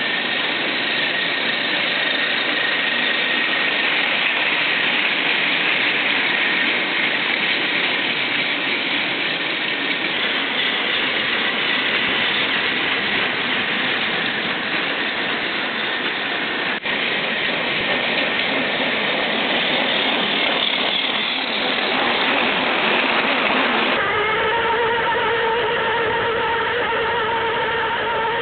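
Battery-powered Tomy Plarail toy train running along plastic track: a steady whirring motor and wheel rattle. Near the end the rattle drops back and a steadier hum comes through.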